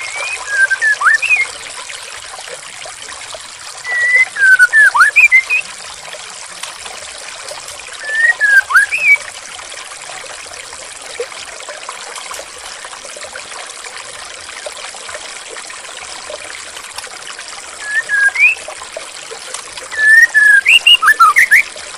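Steady trickling of flowing water, with a songbird breaking in about five times with short bursts of quick whistled chirps that slide up and down in pitch.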